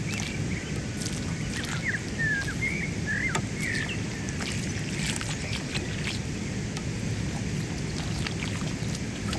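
Outdoor ambience: a steady low rumble, with a small bird giving a run of short chirps during the first few seconds. A few faint clicks come later.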